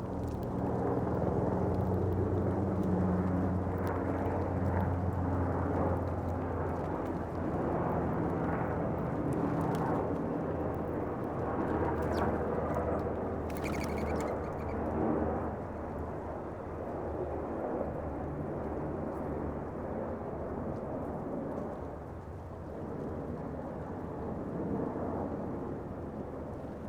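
A low, steady engine-like rumble that fades somewhat in the second half, with a short bird chirp about fourteen seconds in.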